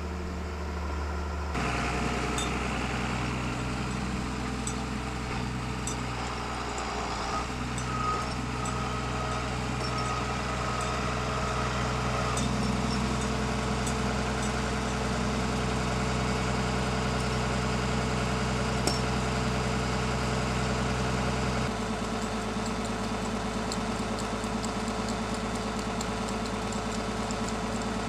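Tractor engine running steadily, its note shifting about a second and a half in and again about twenty-two seconds in.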